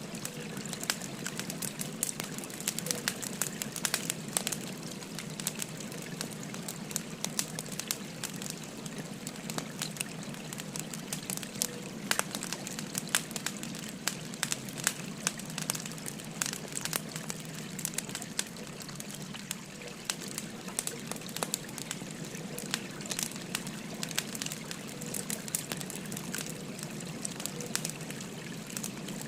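Wood fire crackling with frequent sharp, irregular pops over the steady rush of a babbling river.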